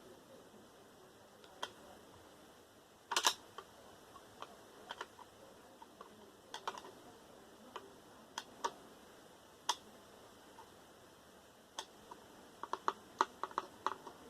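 Scattered sharp clicks and taps of small computer parts, screws and tools being handled while a desktop PC tower is taken apart, with a louder clatter about three seconds in and a quick run of light ticks near the end.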